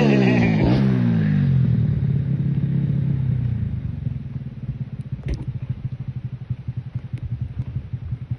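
Trail motorcycle engine revved briefly near the start, then dropping back to a steady, pulsing idle that grows quieter. A sharp click about five seconds in.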